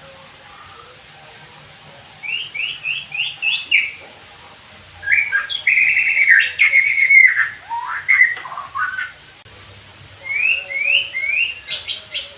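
White-rumped shama (murai batu) singing: a run of short rising notes, then a louder, varied phrase of held whistles and falling slurs, then another run of rising notes that turns into quick, sharp notes near the end.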